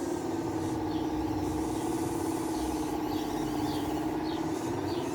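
Electric motor of a radio-controlled construction model whining steadily, its pitch sagging slightly and rising again near the end.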